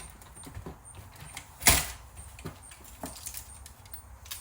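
VCR tape mechanism being handled and pried at during teardown: scattered light clicks and rattles of plastic and metal parts, with one loud clunk about a second and a half in.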